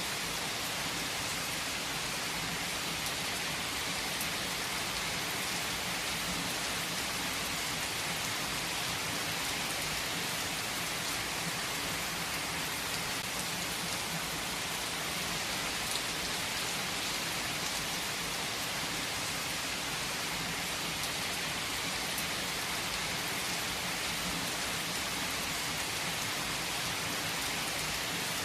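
Heavy rain falling steadily: a dense, even hiss of rain with the odd separate drop tap standing out now and then.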